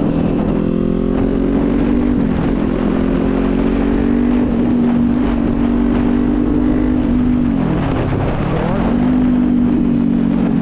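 Motorcycle engine running at a steady cruise over wind noise. Its pitch dips briefly about two seconds in, and near the end falls away sharply, then climbs back up.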